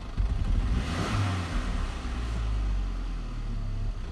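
2002 Saab 9-3 SE engine bogging down under throttle: it runs unevenly at first, then picks up revs about a second in and holds. This is the hesitation the owner is chasing after a head gasket replacement.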